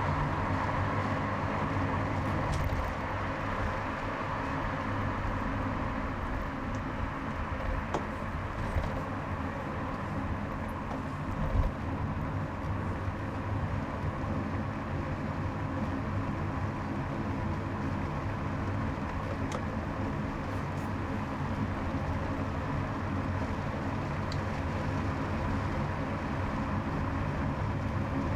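Steady engine and road noise of a car driving along a highway, with a brief low thump about twelve seconds in.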